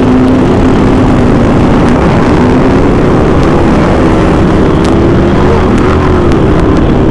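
Harley-Davidson Sportster V-twin motorcycle engines running steadily while riding, the engine note rising slightly a few seconds in, under heavy wind rush on the microphone.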